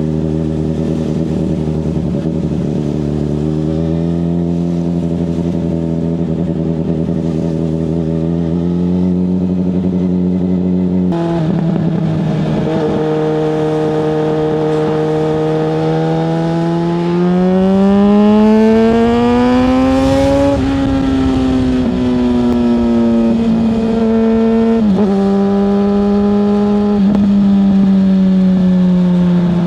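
Yamaha FZ6S 600cc inline-four motorcycle engine running at a steady cruise, then revving up through a gear about two-thirds of the way in before an upshift brings the pitch back down, with a couple of brief throttle dips near the end.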